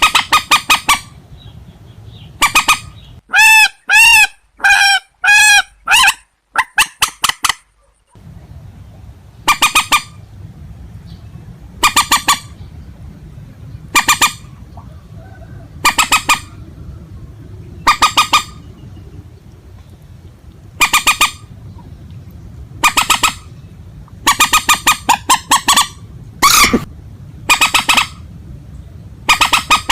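Short harsh calls of rails (purple swamphen and white-breasted waterhen recordings), repeated about every two seconds, with a quicker run of rising-and-falling calls about three to six seconds in. A steady low hum runs under them, dropping out briefly near the start.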